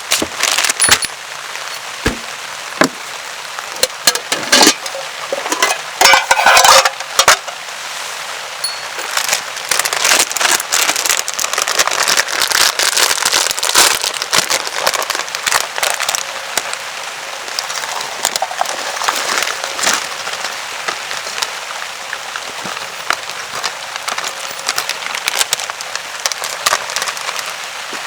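Rain pattering steadily on a tarp, with many irregular sharp clicks and cracks through it, several loud ones in the first seven seconds.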